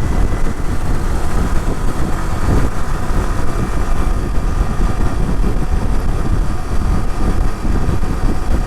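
Motorcycle riding at speed: wind buffeting the microphone in a heavy, uneven rumble, with the engine running steadily underneath.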